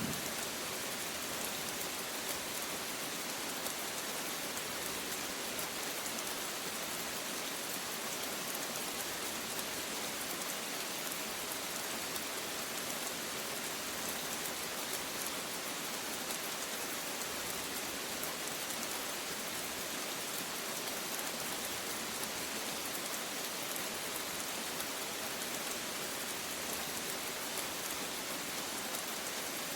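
Steady rain falling, an even patter of many drops at a constant level.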